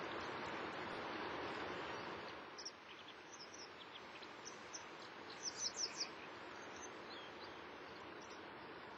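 Birds chirping: a scatter of short high chirps, loudest in a quick cluster about five to six seconds in. Underneath is a steady outdoor rushing noise that drops away about two and a half seconds in.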